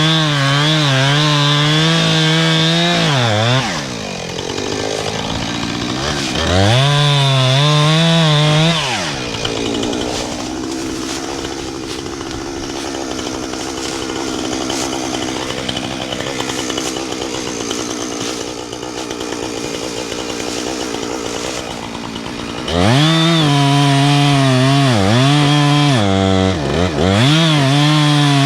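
Two-stroke Husqvarna chainsaw run up to full throttle for a few seconds at a time, dropping back to a steady idle in between, with a long idle stretch in the middle. Near the end it runs at full throttle again, with the pitch dipping briefly twice.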